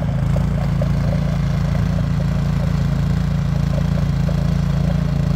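Troy-Bilt snowblower engine running steadily as it works into deep, hard-packed snow left by the plows.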